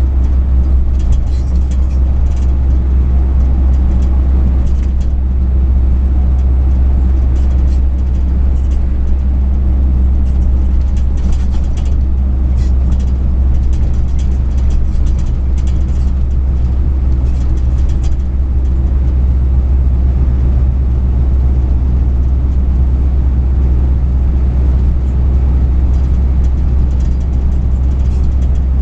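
Truck on the move, heard from inside the cab: a loud, steady low drone of engine and road noise, with faint irregular light ticks or rattles over the first two thirds.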